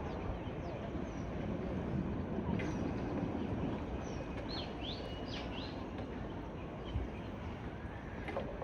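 Small birds chirping over a steady outdoor background rumble: short high calls about once a second, then a quick run of several chirps about halfway through.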